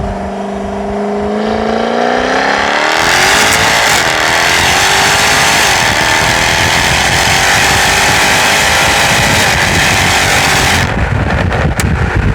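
Jaguar F-type R's supercharged 5.0-litre V8 revving up over about three seconds, then held at high revs for about eight seconds under a loud rushing noise that cuts off abruptly about eleven seconds in.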